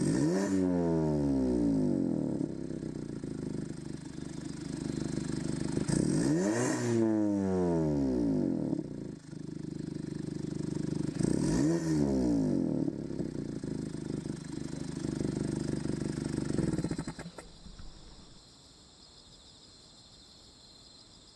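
Mazda ND MX-5 Miata's four-cylinder engine through an aftermarket AIMGAIN valved exhaust, idling and revved three times, each rev rising and falling back to idle. The engine sound stops about 17 seconds in, leaving a quiet background.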